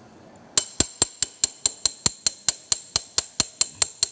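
A metal hand tool works on the rear monoshock mounting hardware, making a fast run of sharp, evenly spaced metallic clicks, about five a second, that starts about half a second in.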